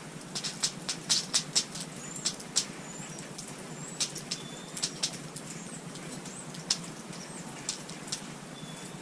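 Small songbirds at a feeder: a few brief high chirps and short whistled call notes among irregular sharp ticks and taps, over a steady low hum.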